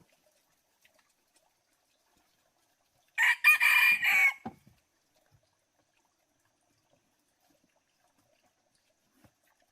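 A rooster crowing once, a single call of about a second and a half starting about three seconds in.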